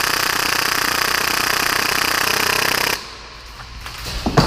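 Full-auto gas blowback Tokyo Marui Hi-Capa airsoft pistol, built to fire about 30 rounds per second, firing in one continuous rattling burst that cuts off suddenly about three seconds in. A single sharp knock follows near the end.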